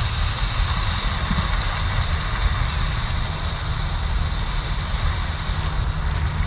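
A steady hiss of pressurised water spraying from a leaking buried water-line coupling, fading near the end, over the constant low rumble of an idling engine.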